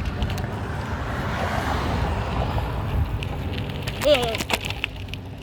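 Wind rushing over a phone microphone taped to a moving BMX, over the steady rumble of the bike rolling along. A short vocal sound and a few sharp clicks come about four seconds in.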